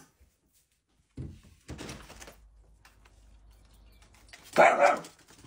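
A door thunking as it is opened or shut, two knocks a little over a second in, then a loud short burst near the end.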